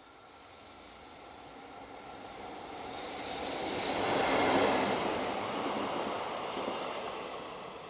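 EF65 electric locomotive hauling a Shizuoka Railway A3000 electric train set past on the rails: the wheel and rail noise swells to a peak about four and a half seconds in, then fades as the train moves away.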